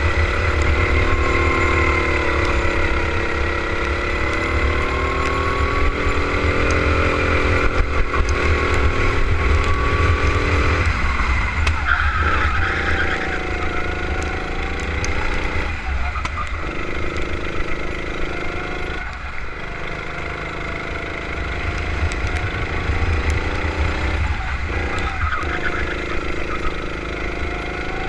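Kart engine running hard on track, its pitch rising and falling with the throttle. The note drops off briefly several times, about every few seconds, as the throttle is lifted, then climbs again.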